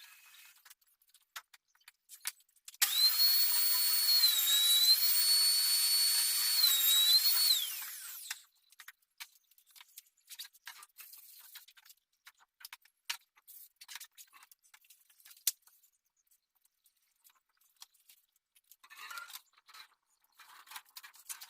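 A handheld power tool runs for about five seconds with a high whine that dips and recovers in pitch as it takes load, then winds down. Faint scattered clicks and taps follow.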